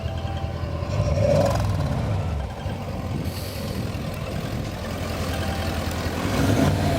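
Mercedes OM629 4.0-litre V8 biturbo diesel running through straight pipes and emptied mufflers, a loud low rumble. It swells about a second in, eases back to a steady rumble, and rises again near the end.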